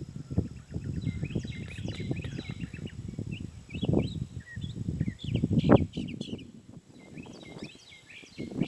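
A songbird singing a run of short, varied chirping notes. Underneath is a loud, uneven low rumble on the microphone, strongest about four and six seconds in.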